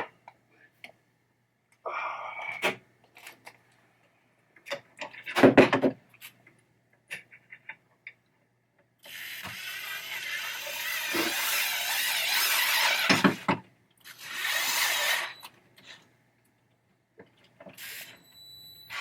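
Hand tools clicking, knocking and scraping against the metal parts of a pinball trap door mechanism as a nut is worked onto a screw. There is a louder knock about a third of the way in, and two longer scraping stretches past the middle.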